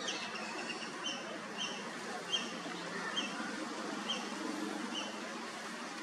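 A bird calling: a longer note at the start, then a series of six short, high notes, slowing slightly to about one a second.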